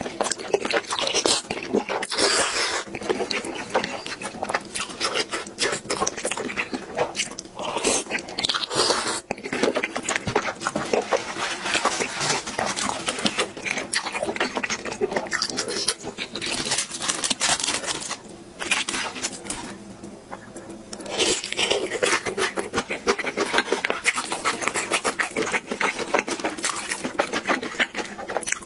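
Close-miked wet chewing and lip smacking of someone eating tteokbokki, chewy rice cakes and fish cakes in thick red sauce: a dense run of sticky clicks and smacks, easing off for a couple of seconds about two-thirds of the way through.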